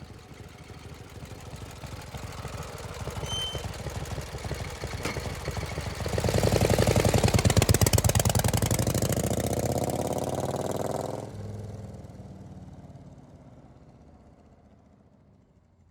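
Harley-Davidson Street Glide's V-twin engine running with a pulsing beat, growing louder and loudest around six seconds in, then fading away over the last few seconds.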